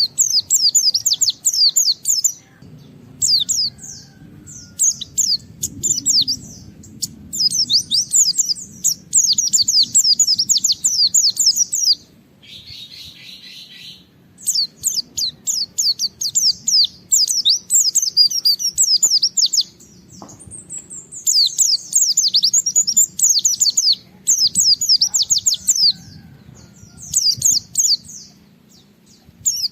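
White-eye (pleci) singing hard in long bursts of fast, high chattering notes, each a few seconds long with short pauses between. It is the full, insistent 'gacor' song of a bird challenging a rival. About twelve seconds in, a short, lower, buzzier call breaks in.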